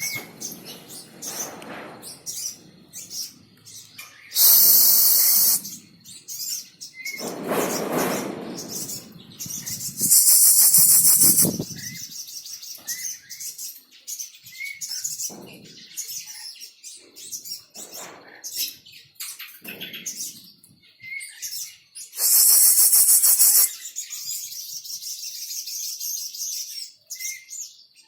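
Caged songbirds chirping, a sogon (crimson sunbird) among them. Three long, loud, high rapid trills break in about 4, 10 and 22 seconds in.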